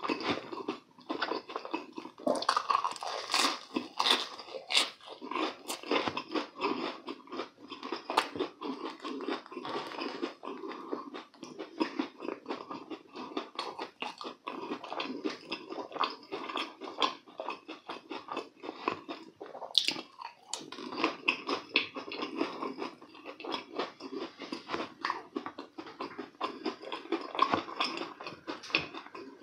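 A man biting into and chewing crisp, breadcrumb-coated deep-fried croquettes, a steady run of crunching and wet chewing. The sharpest crunches come a few seconds in and again around twenty seconds in.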